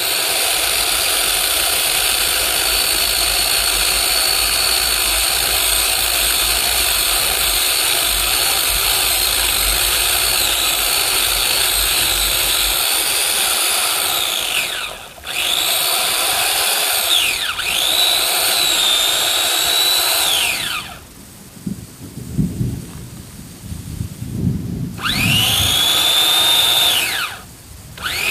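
Electric chainsaw running and cutting wood, its motor whine dipping in pitch under load, with a pause about three-quarters of the way through and two shorter bursts near the end.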